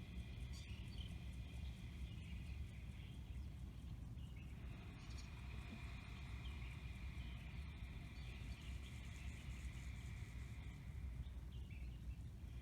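Faint outdoor background: a steady high-pitched chirring with twittering over a low rumble, the chirring dropping out briefly about four seconds in.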